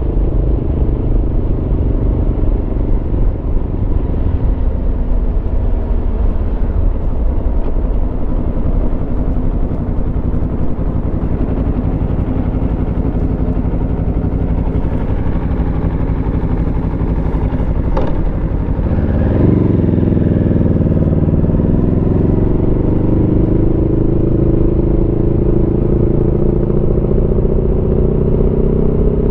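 Aprilia Tuono V4's V4 engine running under way at a steady pitch; about two-thirds through, the revs drop briefly, then climb steadily as the bike accelerates.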